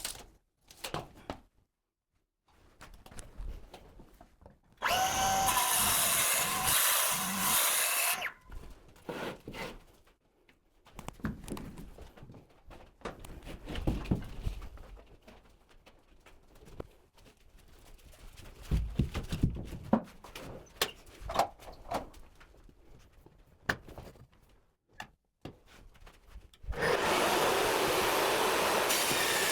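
An electric woodworking power tool runs twice, for about three seconds about five seconds in and again near the end, with clattering knocks of boards and tools being handled between the runs.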